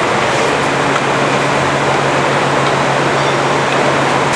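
Forrest Model 236 bandsaw running steadily, with its 5/8-inch scallop-edge blade driven at 3000 feet per minute: a continuous machine whir with a low, steady hum.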